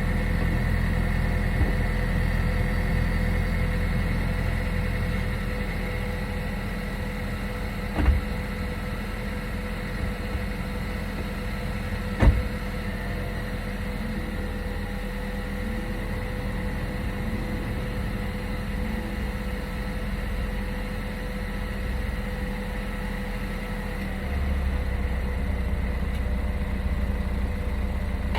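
2015 Lincoln MKC's 2.0-litre turbocharged four-cylinder idling steadily after a cold start; the idle settles a little lower about five seconds in and steps up again near the end. Two short sharp knocks sound in between.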